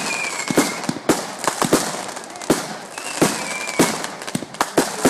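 Aerial fireworks going off in quick succession: a string of sharp bangs, a few each second, over a steady crackle.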